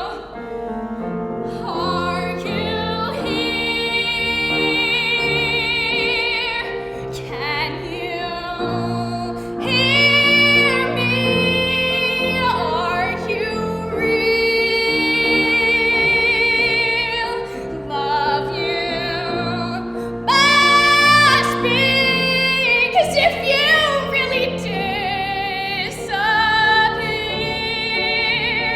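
A woman singing a musical-theatre ballad in long held notes with a wide vibrato, over piano accompaniment. One phrase climbs higher and louder about two-thirds of the way through.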